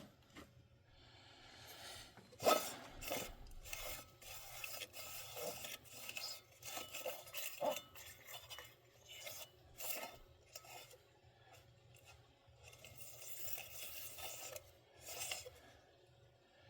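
Irregular scraping, rubbing and light metallic clinks of hand work on a van's heater blower motor assembly, with the loudest knock about two and a half seconds in.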